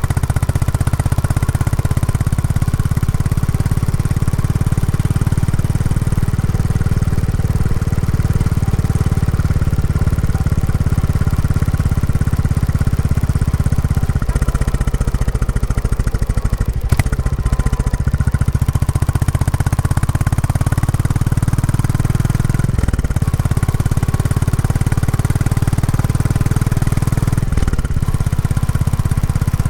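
Royal Enfield Classic 350's single-cylinder engine running through its stock exhaust while the motorcycle is ridden, being run in. The engine note shifts a few times, and there is a sharp click about 17 seconds in.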